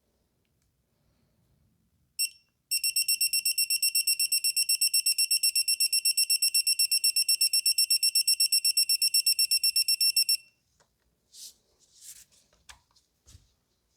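Electronic torque wrench beeping: one short beep, then a rapid, steady string of high-pitched beeps for about eight seconds that stops abruptly, the wrench's signal that the preset torque of 17 foot-pounds on a spark plug has been reached. A few faint knocks follow.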